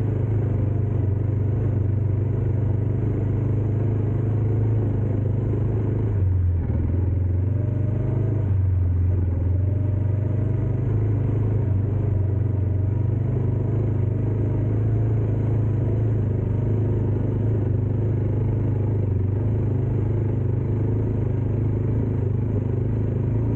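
Dirt bike engine running steadily under way. Its note drops briefly about six seconds in, then picks up again about two seconds later.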